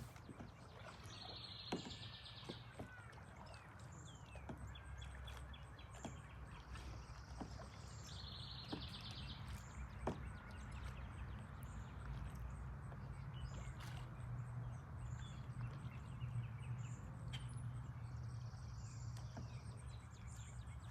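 Outdoor ambience on the water: a steady low rumble with occasional sharp knocks, and short buzzy bird trills twice.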